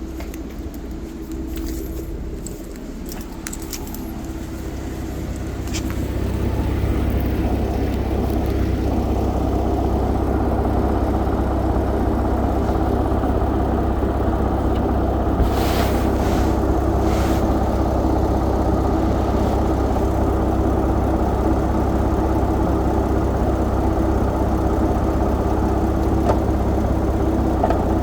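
Nissan 370Z's 3.7-litre V6 and drivetrain running with a steady low rumble and hum that grows louder about six seconds in, then holds level. A few brief clacks come about halfway through.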